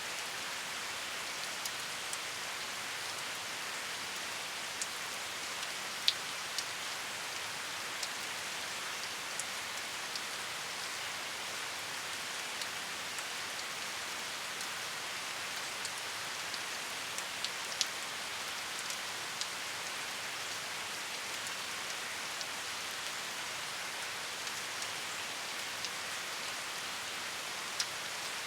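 Steady rainfall, an even hiss with scattered individual drops ticking sharply on a surface, a couple of louder drips about six seconds in and near eighteen seconds.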